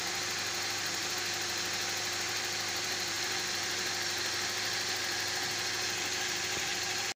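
Toyota Corolla engine idling steadily with the air-conditioning compressor engaged, an even running sound with a steady hum.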